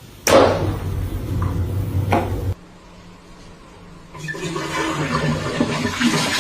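Rushing water of a toilet flushing. It starts suddenly, cuts off abruptly about two and a half seconds in, and a second rush of water noise follows from about four seconds in.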